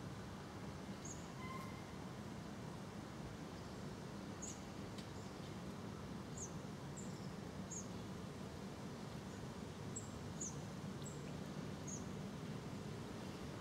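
Steady low outdoor background noise with short, high bird chirps scattered through it, most of them from about four seconds in.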